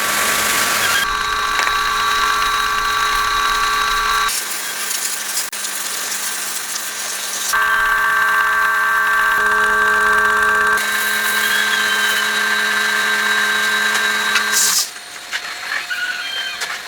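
Motorised workshop machinery running steadily with a hum and a high whine, in a series of short clips whose sound changes abruptly every few seconds.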